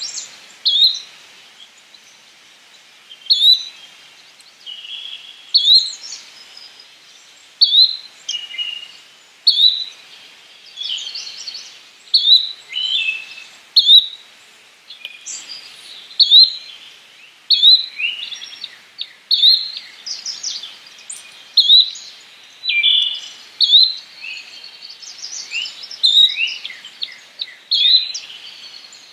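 Yellow-bellied flycatcher calling: a short, sharp note repeated about every two seconds, with softer sliding bird calls in between.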